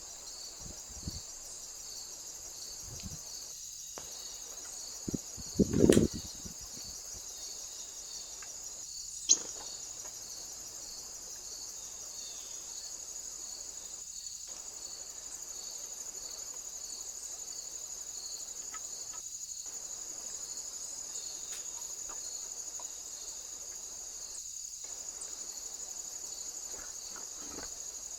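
Crickets chirring in a steady high-pitched chorus with an even pulse. A few dull thuds come about five to six seconds in, the loudest sounds here, and a sharp click follows about three seconds later.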